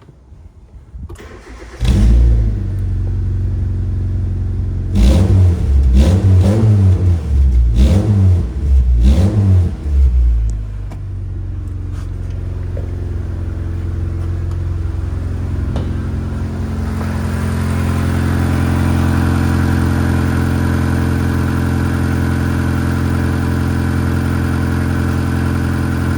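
Mitsubishi 4G93 1.8-litre inline-four petrol engine starting about two seconds in. It is revved in several quick blips, then settles into a steady idle.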